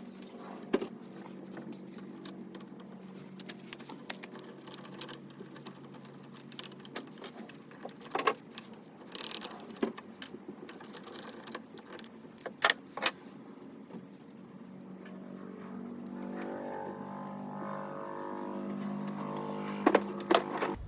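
Metal hand tools and engine parts clinking and tapping, with scattered sharp clicks over a steady low hum.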